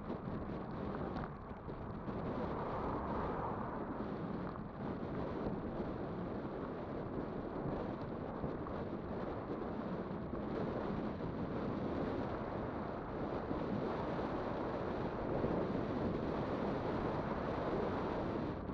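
Steady wind rushing over the microphone, mixed with tyre and road rumble from a moving electric bike.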